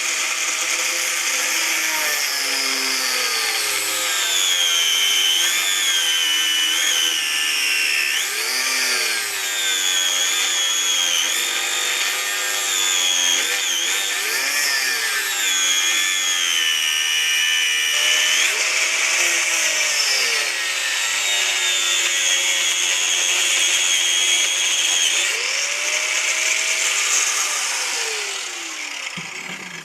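Electric angle grinder running continuously on steel, its whine sagging and recovering again and again as it is pressed into the work and eased off.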